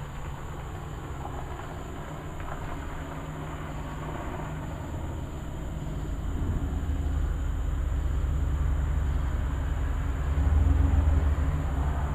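Distant thunder rolling as a low rumble that builds about halfway through and is loudest near the end.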